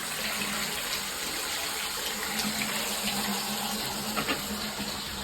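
Water running steadily through a drain line, with a low steady hum joining about two seconds in.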